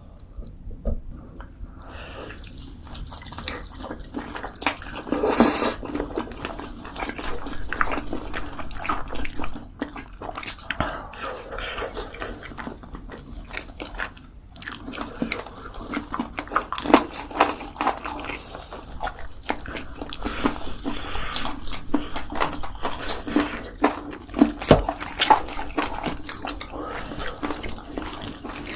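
Close-miked mukbang eating sounds: wet chewing and smacking of spicy chicken, with frequent small clicks and knocks of utensils and dishes.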